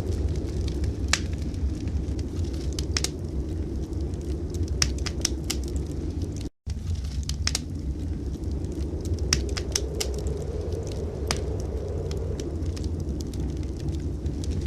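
Wood fire crackling in a fireplace, irregular sharp pops over a steady low rumble of blizzard wind. The sound cuts out completely for a split second about six and a half seconds in.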